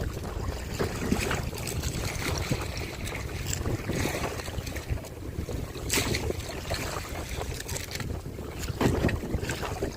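Wind buffeting the microphone in a steady low rumble, with scattered clicks and knocks over it.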